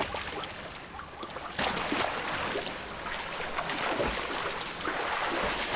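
River water splashing and churning as animals move through it, with a louder surge of splashing starting about a second and a half in.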